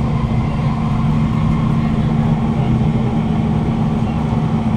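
Cabin sound of a Kawasaki C151 (GTO-VVVF) metro train running along the line: a steady hum from the traction motors over continuous wheel-on-rail rumble.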